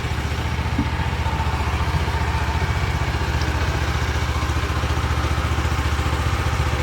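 An engine running steadily at an even speed, with a fast, regular throb and no change in pitch.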